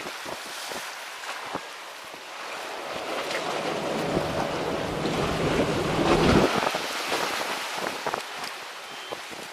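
Strong wind buffeting the microphone over the sound of sea surf. A heavy gust builds from about three seconds in and cuts off sharply a little after six seconds, with scattered small clicks throughout.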